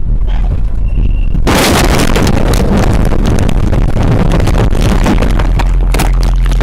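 A vehicle crash on a dashcam: over the steady rumble of a running vehicle, a sudden loud crash about a second and a half in, then several seconds of dense crackling, rattling noise.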